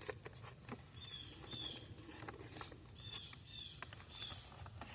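Light clicks and rattles of a wire and its clip being fastened to a bracket in an engine bay, with short high chirps repeating every few tenths of a second.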